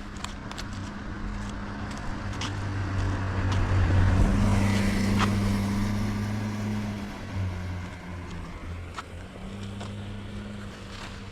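A car passes on a wet road, its tyre hiss swelling to a peak about four to five seconds in and then fading. Under it runs a steady low engine hum, with scattered sharp ticks.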